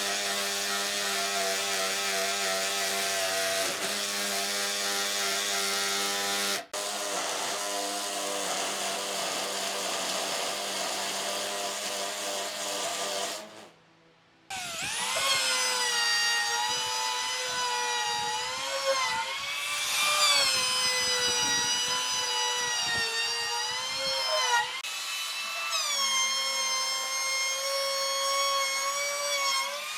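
Electric power tools working wood: first a motor runs at a steady pitch, then after a short break a higher-pitched motor whines, its pitch dipping and recovering again and again as it bites into the wood.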